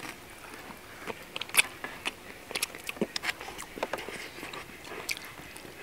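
Close-miked chewing and biting of crispy fried pork chunks, with scattered short sharp crunches. The loudest crunch comes about a second and a half in, and a few more follow around three seconds.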